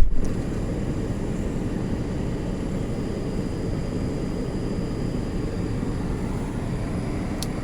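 Car engine running with a steady drone while the car sits stuck in deep snow, with a single knock right at the start.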